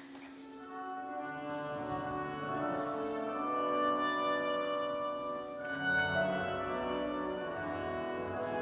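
Orchestral recording of a patriotic anthem, with brass and strings holding long chords, swelling about a second in.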